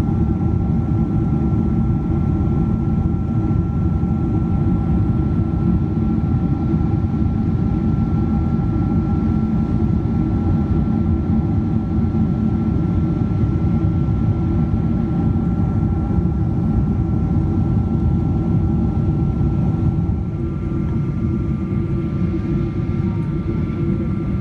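Steady cabin noise of a Boeing 777-200ER with Pratt & Whitney PW4090 engines: a dense low rumble carrying a couple of faint steady whining tones. About twenty seconds in, the noise drops slightly and the whine changes pitch.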